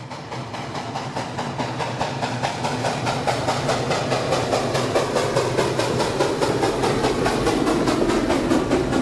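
Train wheels clicking over rail joints in a quick, even rhythm over a running rumble, growing louder over the first few seconds as the train draws near.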